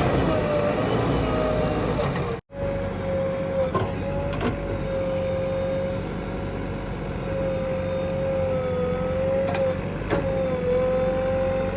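Diesel engine of a JCB 3DX backhoe loader running under load with a steady, slightly wavering hydraulic whine over a low rumble, with a few light clanks; the sound cuts out for an instant about two and a half seconds in.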